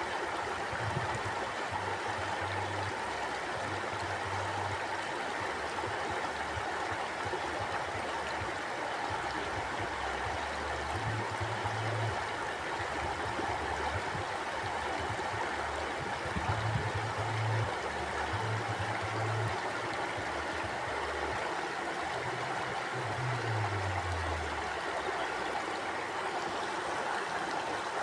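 River water flowing steadily, an even rushing noise, with uneven low rumbles coming and going underneath.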